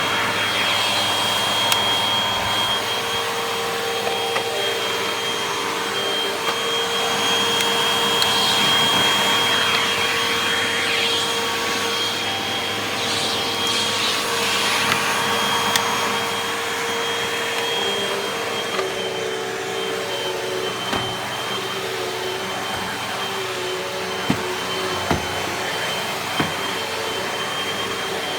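Hoover upright vacuum cleaner running steadily: a constant motor whine over the rush of air, swelling and fading in places. A few short sharp knocks sound near the end.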